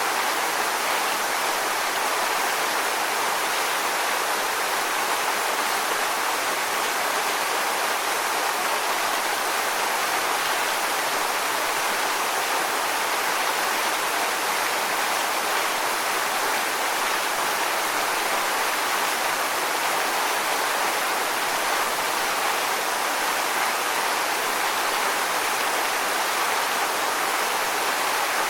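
Waterfall: falling water rushing steadily, an even hiss strongest in the middle and upper range with little low rumble.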